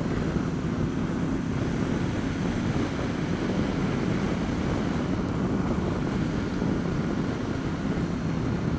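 Honda VFR750's V4 engine and wind noise while riding, picked up by a helmet-mounted Bluetooth headset microphone: a steady low drone.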